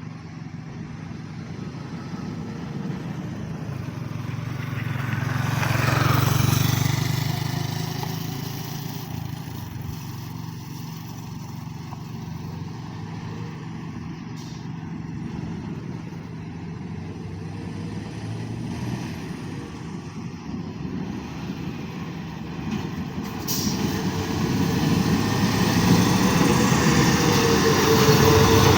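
Heavy truck driving past, loudest about six seconds in and fading away with a falling pitch. Near the end another heavy vehicle approaches and grows steadily louder, with a short sharp hiss just before.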